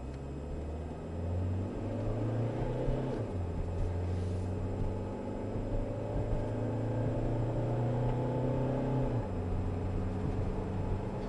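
The 1.8-litre four-cylinder engine of a 2006 Nissan Sentra is accelerating under load. Its pitch climbs steadily and drops back as the automatic transmission upshifts, once about three seconds in and again about nine seconds in, which is a test of the transmission shifting.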